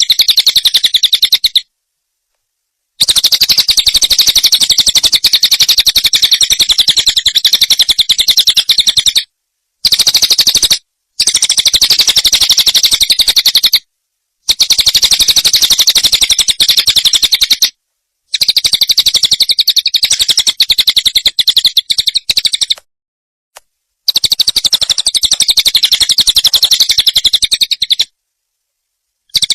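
A recorded songbird's fast, high, dense trilling twitter, used as a masteran tutor song for training cage birds, in phrases several seconds long that start and stop abruptly, with about seven short silent gaps between them.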